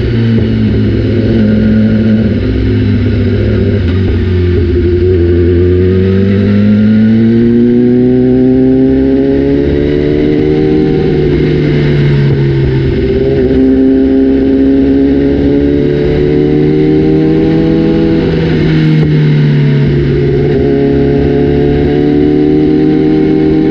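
BMW S1000RR inline-four engine running through an Austin Racing exhaust, its pitch climbing and falling several times with a sudden drop a little after halfway.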